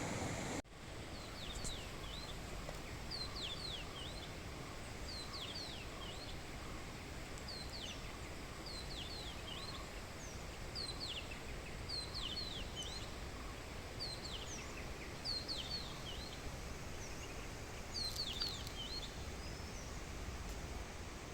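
A songbird repeating a short phrase of quick, high, downward-slurred notes about once a second, over a steady background hiss of outdoor ambience.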